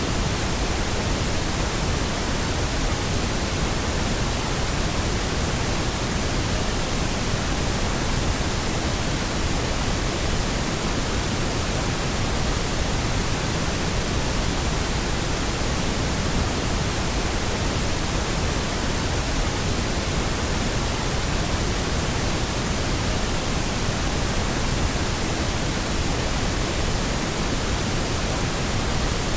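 Steady pink noise: an even, unbroken hiss spread across all pitches, fuller in the lows than white noise, with no change throughout.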